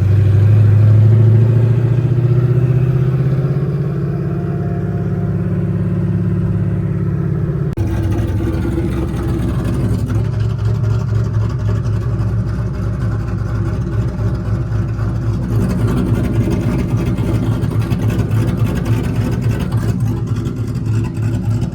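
S197 Ford Mustang engine running, loudest in the first few seconds. The sound changes abruptly about eight seconds in and carries on as a steady engine note.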